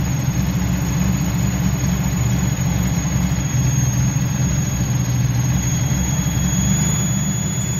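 Freshly installed Datsun L28 straight-six idling steadily on its twin SU carburettors while the carburettors are being balanced at idle.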